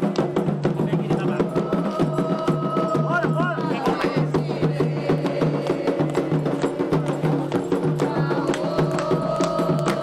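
Candomblé ceremonial music: drums and sharp wood-block-like percussion keep a fast, steady rhythm under group singing, with long held sung notes twice.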